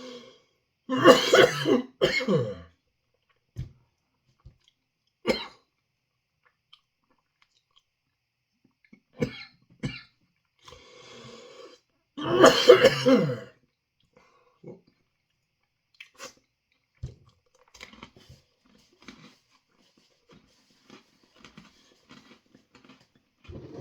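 A man coughing hard in two fits, about a second in and again around twelve seconds in, with a few single coughs and throat-clearing between and small mouth clicks near the end. The coughing comes while he is eating an extremely hot chilli ice cream sandwich, a 7 Pot Primo pepper at about 1.4 million Scoville.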